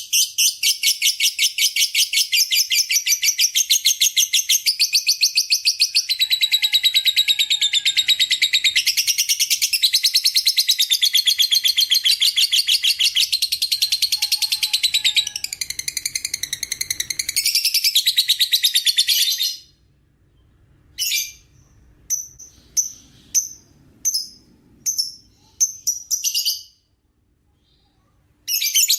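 Lovebird giving a long, rapid chattering trill, the 'ngekek' song, for nearly twenty seconds. It then breaks off into short, separate high chirps.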